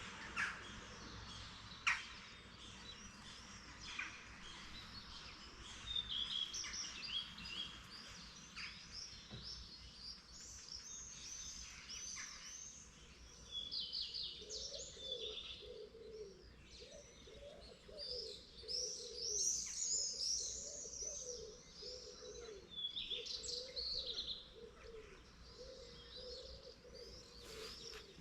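Dawn chorus of several small songbirds chirping and trilling, with overlapping high calls throughout. About halfway in, a lower, repeated warbling call joins and continues under the higher songs.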